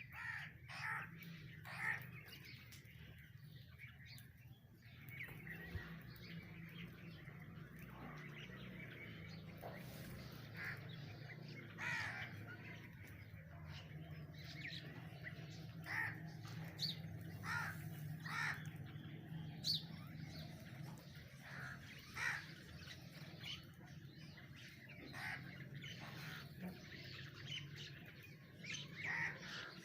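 Birds calling: short harsh calls and chirps scattered every second or two, over a steady low hum.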